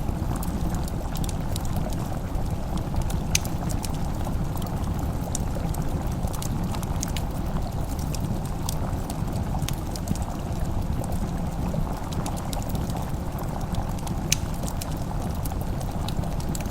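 Fireplace crackling: scattered sharp pops over a steady low rumble.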